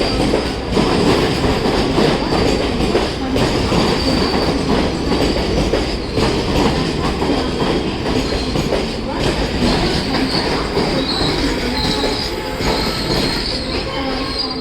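Passenger train pulling into the platform: a steady rumble of the wheels with clicks over the rail joints, and high-pitched wheel squeals that come more often near the end as it slows.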